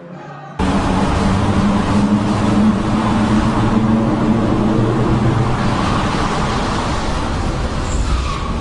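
Car engine running with a steady noisy rush, starting abruptly about half a second in.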